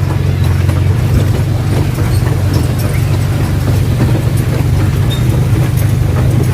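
A steady, loud low drone of a running motor, with a rumbling noise over it.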